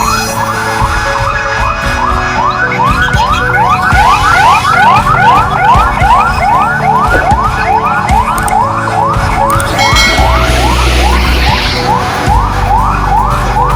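Electronic emergency-vehicle siren in fast yelp mode: short rising sweeps repeating several times a second without a break. Under it runs a low steady rumble of an engine.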